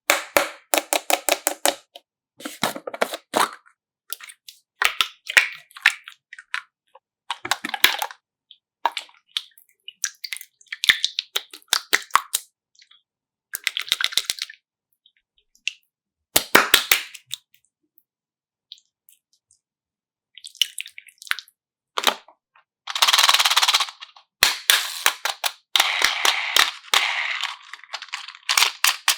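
Bursts of rapid sharp clicks and crackles from objects being handled, separated by silent gaps, with a longer dense crackling stretch near the end.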